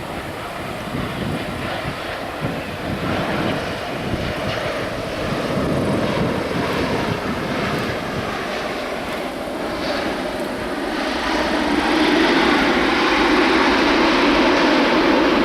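Jet airliner engine noise building steadily and loudest in the last few seconds, with wind buffeting the microphone at the start.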